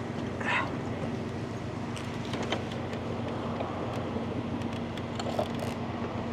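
Tow truck engine running steadily with a constant hum, with a few light clicks and knocks over it.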